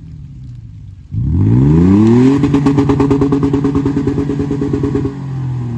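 Truck engine revving up sharply about a second in, held at high revs for about three seconds with a fast fluttering pulse in its note, then dropping back to a lower, steady running speed.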